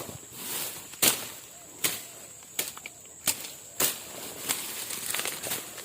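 Footsteps pushing through dry vegetation, with sharp irregular snaps and crackles of stems and twigs about once or twice a second.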